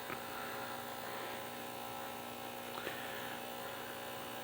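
Steady low electrical hum at a watch bench, with two faint small clicks of metal parts being handled.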